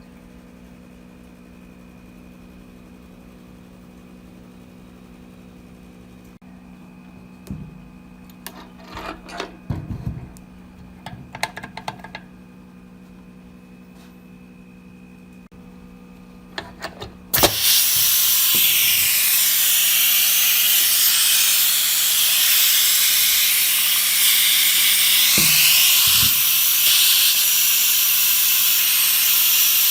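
A steady low hum with a few scattered clicks and knocks, then, a little past halfway, a loud steady hiss starts suddenly and runs on, with a brief knock or two under it.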